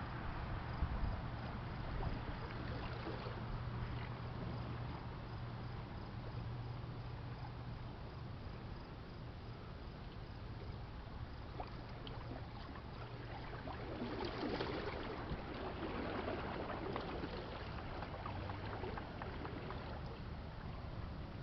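Distant freighters on the river: a low, steady engine hum with water moving and lapping at the shore, swelling a little in the second half.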